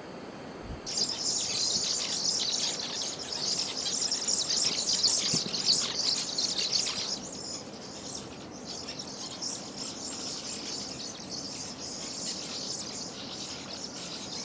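Dense, high-pitched chirring of an insect chorus that starts abruptly about a second in. It is loudest for the next several seconds, then carries on a little softer.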